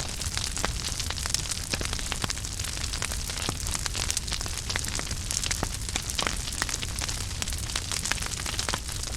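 Wood fire crackling in a fireplace: frequent small, sharp pops at irregular intervals over the steady low rumble and hiss of the flames.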